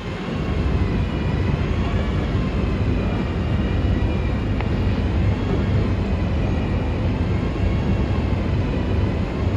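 Vehicle engine running steadily with a low rumble and a faint wavering whine above it.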